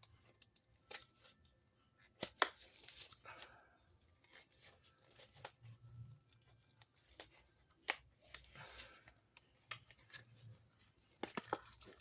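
Silicone mold being flexed and peeled off a cured resin casting: scattered sharp clicks and taps a few seconds apart, with short bursts of rubbery rustling and scraping as the piece is worked loose.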